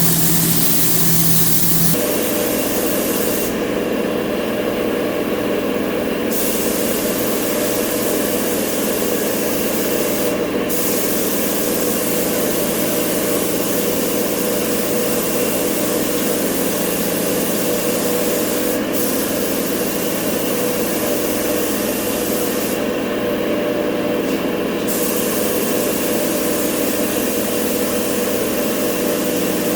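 Compressed-air tool hissing in long blasts over a steady machine hum. The hiss stops briefly several times, for about three seconds soon after the start, a moment near the middle and about two seconds later on.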